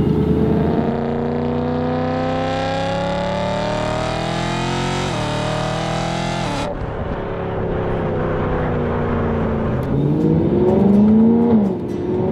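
Supercharged BMW E92 M3's V8 accelerating hard, its pitch climbing through the revs, dropping at a gear change about five seconds in and climbing again. Near the end it revs up once more and falls away.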